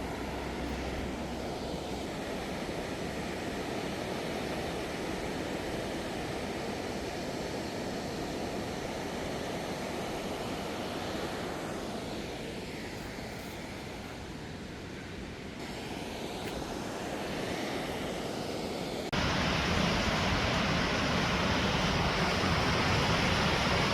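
Steady rushing of a waterfall and the river in the gorge, a continuous even roar of water. It steps up abruptly, louder, about nineteen seconds in.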